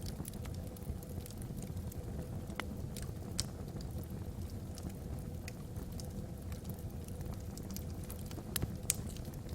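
Wood fire burning in a fireplace: scattered sharp crackles and pops from the logs, a few louder ones about three and a half and nine seconds in, over a low steady rumble.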